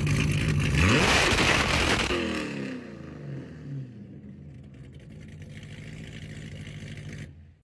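Corvette C7 Z06's supercharged 6.2-litre V8 revved once: the pitch rises sharply about a second in, then falls back to a quieter steady idle. The sound cuts off abruptly near the end.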